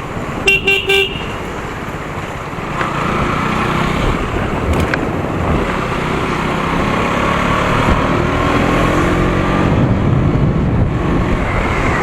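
A vehicle horn gives three quick beeps about half a second in. Then a KTM Duke 200's single-cylinder engine pulls up through the revs, the pitch rising and shifting as it accelerates, with wind rushing over the microphone.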